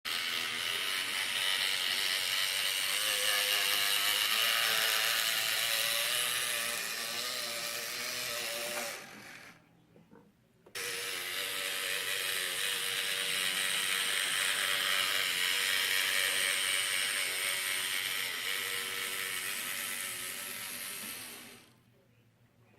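N scale Atlas GP9 model locomotive's motor and gears running with a loud mechanical whir and gear chatter, the noisy running it has after a DCC decoder installation. It fades out about nine seconds in, starts again abruptly a second later, and fades out again near the end.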